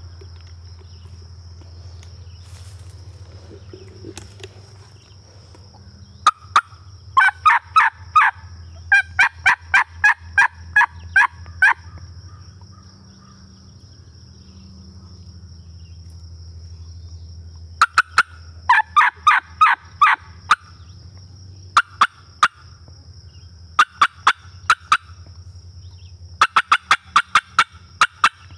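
Turkey call run as a hunter's lure: several series of loud, sharp yelps, about four or five notes a second, with pauses between the series, over a steady low hum.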